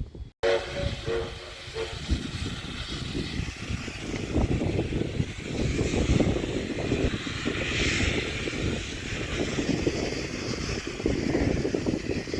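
Steam locomotive running with steam hiss and a low rumble, loudest about eight seconds in. A short whistle chord sounds near the start.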